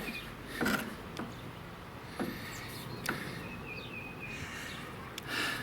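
A few light clicks and knocks with soft rustling, as the camera and the old mower belt are handled and set down, with faint high chirping in the background.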